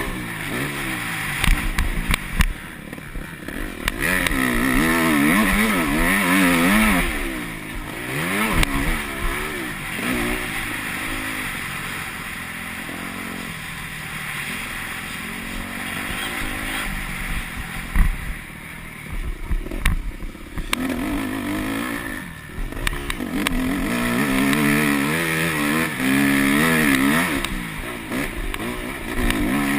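Yamaha YZ250F four-stroke motocross bike engine revving up and down through gears, its pitch rising and falling again and again with short drops in level as the throttle is rolled off, and a few sharp knocks along the way.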